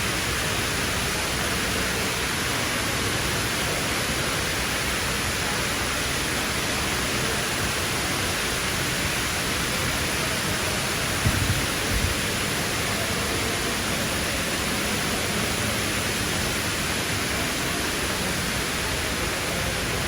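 Steady rushing of water falling down the Dubai Mall's indoor waterfall. A couple of brief low thumps come about eleven seconds in.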